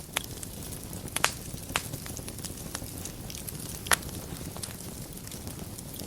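Wood fire burning in a fireplace: a steady low rumble with crackling and scattered sharp pops of burning wood, the loudest pop about four seconds in.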